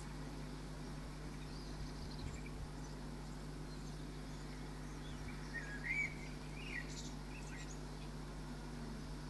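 Faint bird chirps over a steady background hiss and low hum, with a short cluster of rising and falling chirps a little past halfway as the loudest part.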